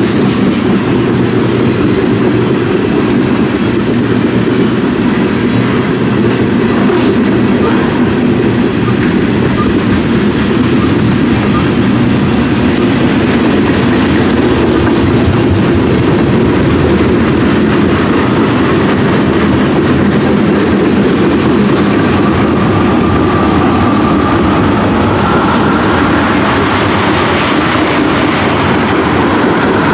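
CSX freight train's cars rolling past close by: a steady, loud rumble and clatter of wheels on the rails. A thin squeal of wheels on rail comes in after the halfway mark and rises slightly in pitch.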